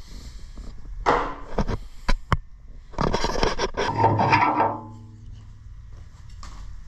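Metal screwdriver prying and scraping under a seized steering wheel hub on its shaft: a short scrape, a few sharp clicks, then a longer scrape that ends in a squeak falling in pitch.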